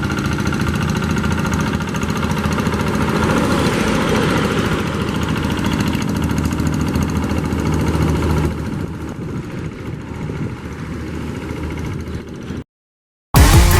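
A paddy-field tractor's diesel engine running steadily, a little quieter after about eight seconds. Near the end it cuts to a moment of silence, then loud music starts.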